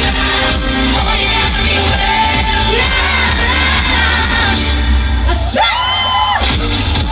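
Live pop music with a heavy bass beat and a woman singing. About five and a half seconds in, the backing thins out as one voice slides up into a high held note for about a second, then the full music returns.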